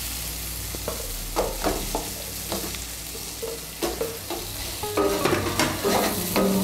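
Chickpeas and spice paste sizzling in hot oil in a steel pan, with a wooden spatula knocking and scraping as pieces of fried potato are added and stirred in.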